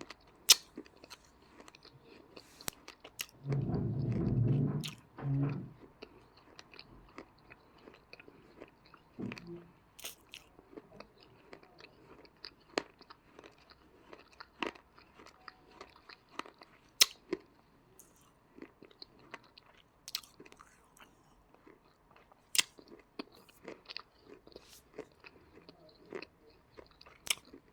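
Crunching bites and chewing of dry edible clay (yellow choy) with a cocoa paste: sharp, irregular crunches every second or so. A louder, low, muffled sound comes about four seconds in.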